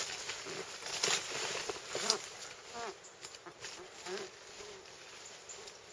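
Knife blade cutting into a deer's neck hide and hair, heard as a few short rasping strokes, the clearest about one and two seconds in.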